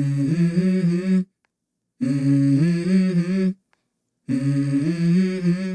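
Hummed vocal phrase from a song, a short stepping melody played three times, each time cut off sharply into dead silence.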